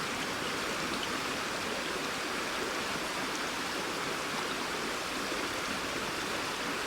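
A flowing river: a steady rush of water.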